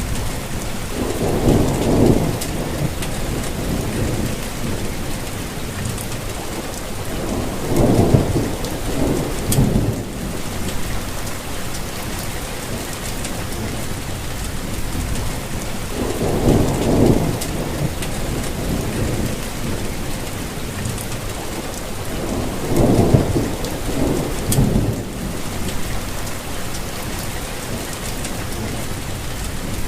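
Steady rainfall hissing. About four times, near the start, around 8 s, around 17 s and around 23–25 s, low rumbles swell and fade over a couple of seconds each.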